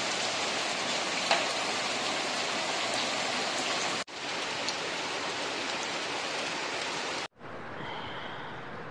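Heavy rain falling, a steady dense hiss. It cuts off abruptly twice and comes back each time, quieter after the second break.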